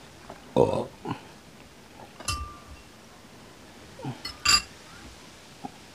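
Metal spoon clinking against a balut egg's shell and the dishes while scooping out the egg: a few separate clinks, two of them louder, about half a second in and again near the end, one with a brief ring.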